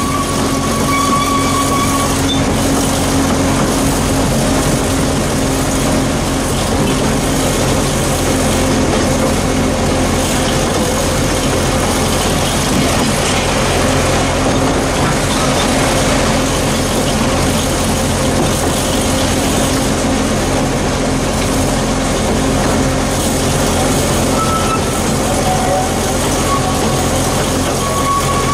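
Narrow-gauge train heard from an open passenger carriage: the locomotive runs with a steady drone over constant wheel-on-rail noise. A toot from the train ends about two seconds in, and another starts right at the end.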